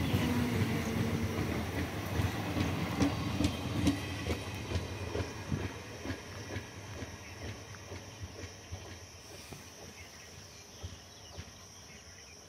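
Express train's last coaches clattering past on the rails, the wheels clicking over the rail joints, the clatter growing steadily fainter as the train pulls away.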